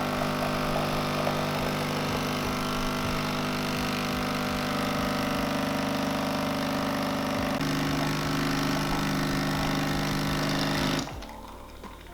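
Nescafé Dolce Gusto capsule coffee machine's pump running steadily as it brews a coffee pod, its hum shifting in pitch about seven and a half seconds in and cutting off suddenly near the end.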